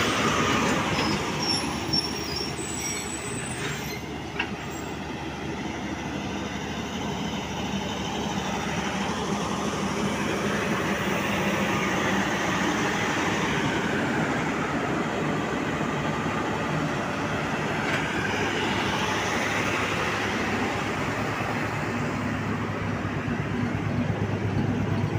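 Diesel locomotive running under way, its engine hum and the rumble of wheels on the rails heard from a coach window just behind it. Faint high wheel squeals come in the first few seconds.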